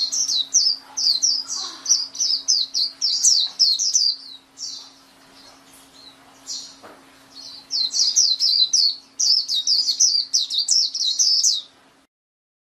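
Pleci (white-eye) singing: rapid strings of high, down-slurred chirping notes in two long bursts, with a gap of a few seconds and a couple of single notes between them. The song stops shortly before the end, and a faint steady hum runs under it.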